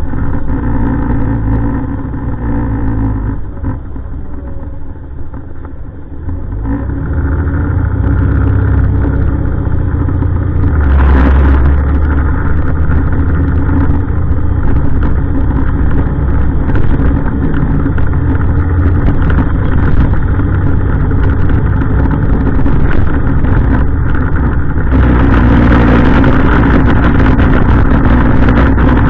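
Heavy truck engine running and pulling away, getting louder about seven seconds in, with a short hiss about eleven seconds in.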